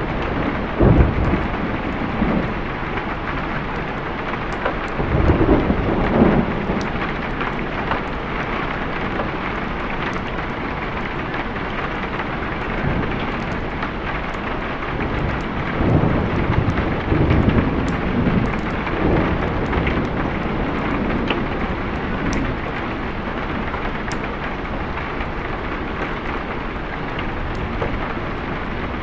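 Steady heavy rain with rolls of thunder: a short rumble about a second in, a longer one around five to six seconds, and a drawn-out roll from about sixteen to nineteen seconds.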